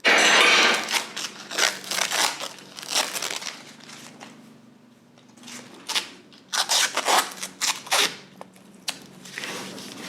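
Tin snips cutting through a motorcycle's metal fork dress covers: an irregular run of crunching snips and tearing metal. It starts abruptly, is busiest at the start and again about six to eight seconds in, with quieter gaps between.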